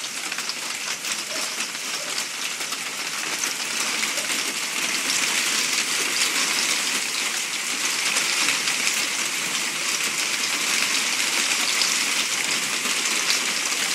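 Hail and heavy rain pelting down: a dense hiss thick with many small, sharp hailstone hits. It grows louder over the first few seconds, then holds steady.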